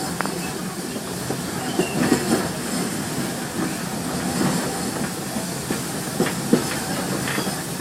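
Steam train's passenger car rolling along the track: a steady running rumble with scattered clacks and knocks from the wheels and rattling car.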